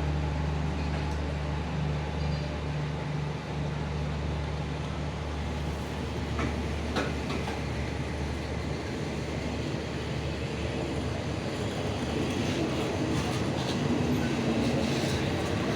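Diesel train: a steady low engine hum for the first several seconds, then a few sharp clicks and a rattling wheel-on-rail noise that grows louder toward the end.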